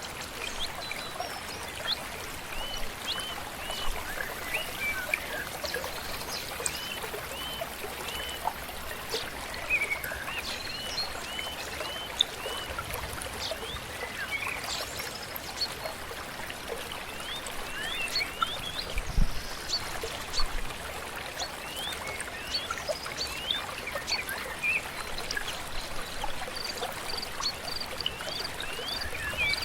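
Stream flowing steadily, with many small birds chirping and singing over it in short, quick notes. Near the end one bird repeats a single high note evenly, about two a second, and there is one low thump about two-thirds of the way through.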